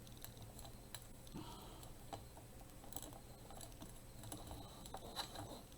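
Faint, scattered small clicks and light handling noises of hands working small craft pieces through holes in a plastic tray.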